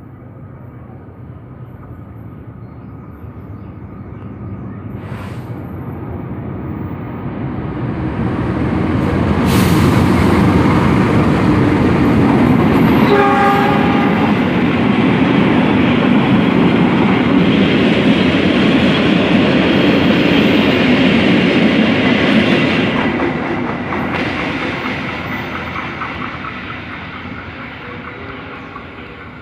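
A train passing by. Its rumble and wheel noise grow steadily louder as it approaches, stay loud while it goes past, then fade as it moves away. A short horn sounds a little before the middle.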